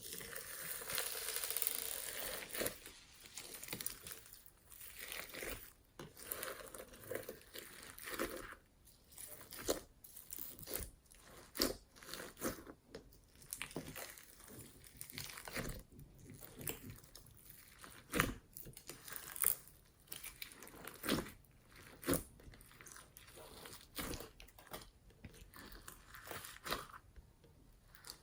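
Slime being kneaded, stretched and pressed by hand, making irregular crackling and popping, with a denser run of crackles in the first couple of seconds.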